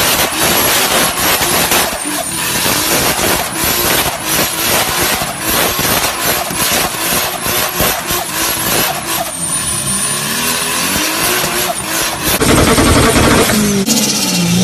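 A big-turbo car engine with a high, thin turbo whistle over rapid, irregular popping and crackling. About twelve seconds in it gives way to a louder, steadier engine run that cuts off abruptly near the end.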